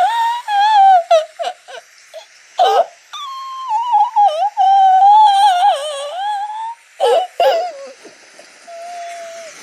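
A child's high-pitched voice making wordless, wavering sounds, with a long drawn-out wail in the middle, voicing a character crying or moaning in distress.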